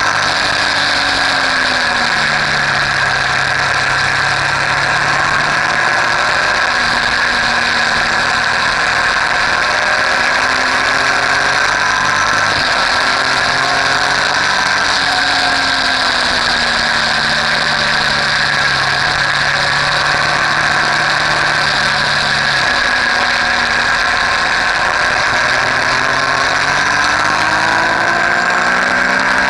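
Motorcycle engine running under way, its pitch rising and falling several times as the revs change, with steady stretches between. A constant rushing noise runs underneath.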